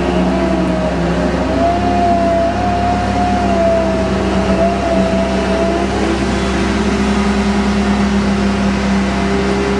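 GMK5210 mobile crane's engine and hydraulics running under operation: a steady drone with a whine above it that wavers slightly in pitch and fades out after about six seconds.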